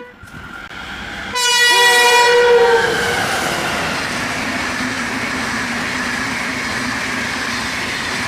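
Irish Rail 201 class diesel locomotive sounding its two-tone horn for about a second and a half, starting about a second in. Then the train keeps rolling past with a steady rumble of engine and wagons.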